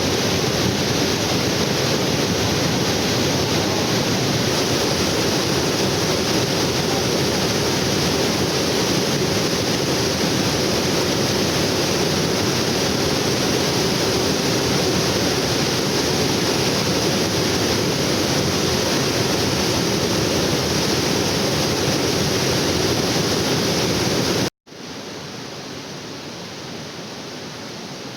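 Waterfall: loud, steady rushing water. About 24 seconds in it cuts off abruptly, and a quieter, steady rushing follows.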